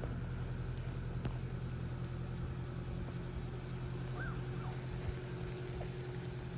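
A steady low mechanical hum, with one faint short squeak about four seconds in; the hum cuts off at the end.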